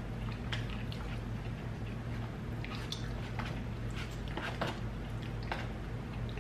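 Close-miked chewing of a soft, sauce-covered burrito, with scattered wet mouth smacks and clicks and a fork working in the food. A steady low hum runs underneath.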